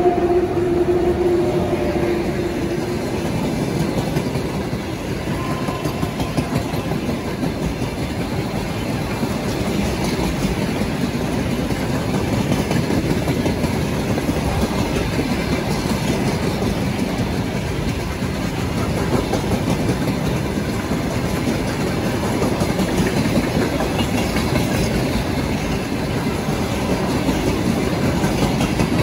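Steady, loud vehicle rumble with a clattering texture, of the kind a train makes running on rails. A held tone at the start fades out within about three seconds.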